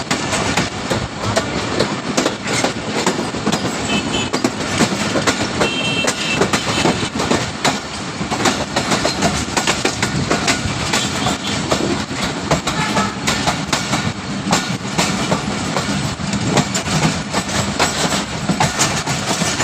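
Train wheels running over the rails: a continuous rumble full of rapid irregular clicks and clatter, with a couple of brief faint squeals a few seconds in.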